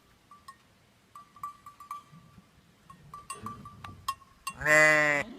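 Small livestock bells clinking irregularly, then one loud bleat from a sheep or goat a little under a second long, near the end.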